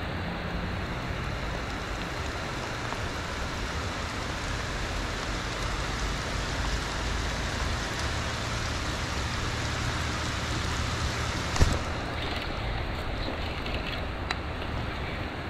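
Steady rain falling on the lake surface and the boat, an even hiss, with a faint low hum underneath. A single sharp click about three quarters of the way through.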